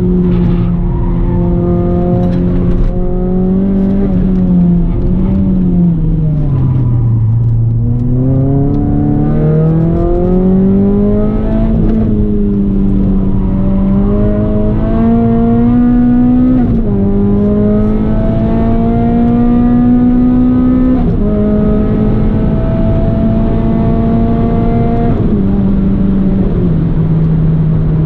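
Renault Clio 197's four-cylinder petrol engine working hard on track. The pitch falls away about five seconds in, climbs again, then steps down sharply several times in the second half as it changes up through the gears.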